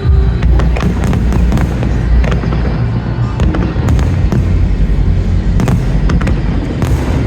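Aerial fireworks display: many sharp cracks and bangs of bursting shells over a continuous low booming rumble, with music playing underneath.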